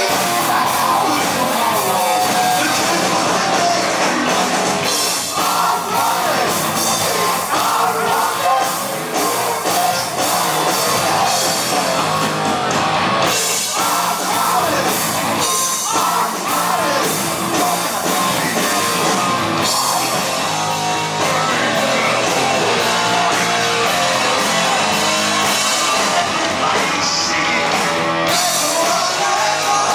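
Heavy metal band playing live: loud, continuous rock music.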